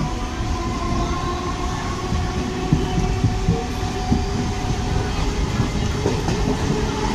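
Moving passenger train heard from inside the carriage by an open window: a steady rumble of wheels on the rails, with a steady whine over it.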